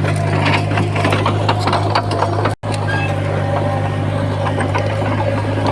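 Heavy earthmoving machinery's diesel engine running steadily with a deep hum, with scattered clanks and knocks over it. The sound cuts out for an instant a little under halfway through.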